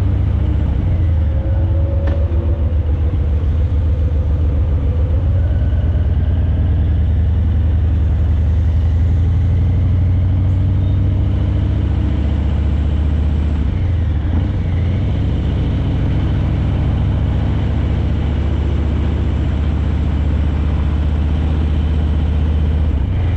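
Harley-Davidson Breakout 117's Milwaukee-Eight 117 V-twin running at low revs through Vance & Hines Eliminator 300 slip-on exhausts, a steady deep exhaust note as the bike rolls slowly, easing off briefly just past halfway.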